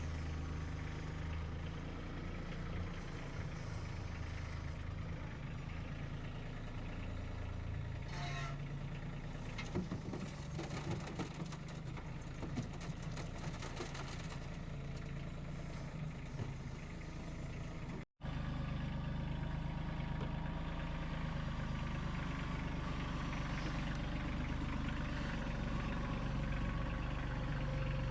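A vehicle engine running steadily at low speed, with some light rattling in the middle. It cuts out for an instant about two-thirds of the way through, then runs on slightly louder.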